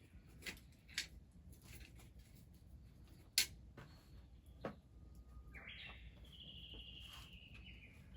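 A few sharp clicks, the loudest about three and a half seconds in, then a high bird call held for over two seconds, sinking slightly in pitch.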